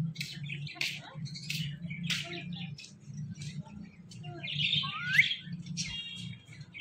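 Ringneck parakeet giving a rapid series of short, high chirps and squawks, with one louder rising call about five seconds in, over a steady low hum.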